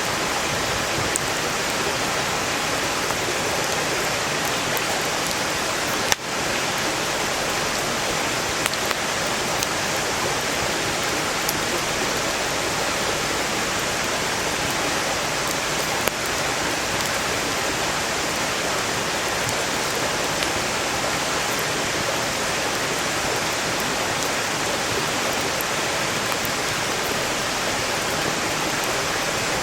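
A mountain stream rushing steadily and loudly, with a wood campfire crackling over it in faint sharp pops and two louder snaps, about six and sixteen seconds in.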